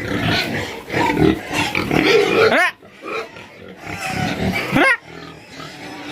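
Pigs grunting and squealing, with two short rising squeals.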